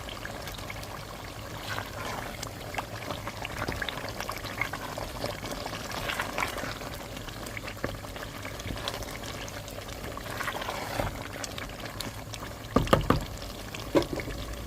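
Pepper and tomato stew base frying in palm oil, sizzling and crackling as meat goes into the pot. A few loud knocks come near the end.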